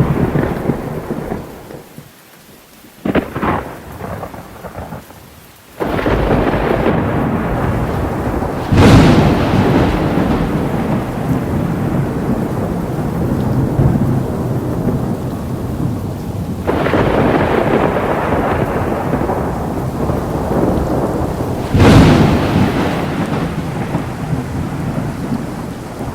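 Heavy rain with thunder. The storm noise dips for a few seconds early on, then comes back suddenly, with loud thunderclaps about nine seconds in and again near the end.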